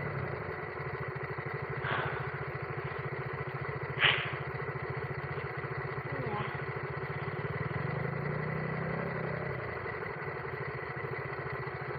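Adventure motorcycle engine idling steadily, with a short swell in level around eight to nine seconds in and a couple of brief noisy bursts, while the bike sits stuck without grip on a slippery slope.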